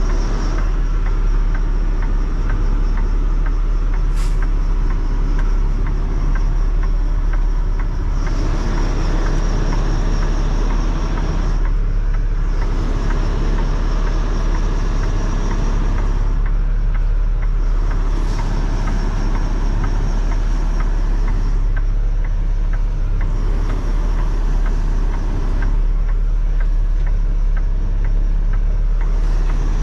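Semi truck's diesel engine idling steadily, with swells of rushing noise coming and going every few seconds.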